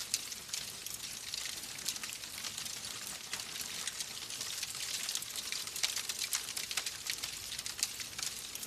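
Wood fire in a fireplace crackling: a steady hiss with many small sharp pops and snaps several times a second.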